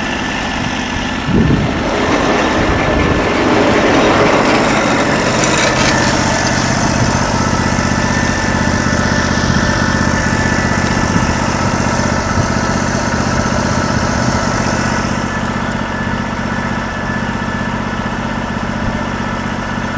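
The portable band sawmill's 16 hp engine running steadily, with a brief louder knock about a second and a half in.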